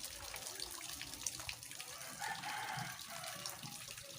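A rooster crows faintly once, a single held call of under a second, about two seconds in. Faint splashing and small clicks are heard throughout.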